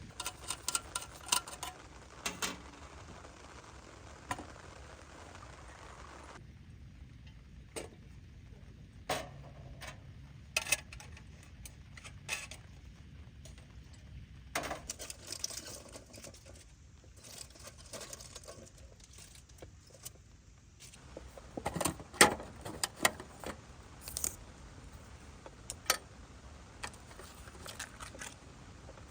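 Scattered clinks, knocks and rattles of small metal camp gear being handled, such as cookware and utensils, over a low steady background. The busiest run of clatter comes a little past two-thirds of the way through.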